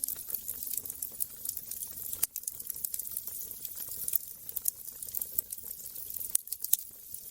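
Wood fire crackling in a fireplace: many small, irregular pops and snaps over a soft steady hiss.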